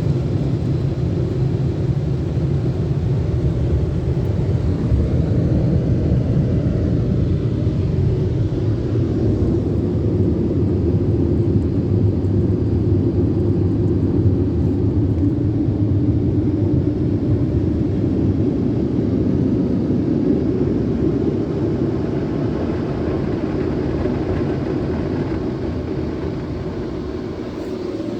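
Jim Coleman Water Wizard 1.0 automatic car wash running: a loud, steady rushing rumble that slowly fades over the last few seconds.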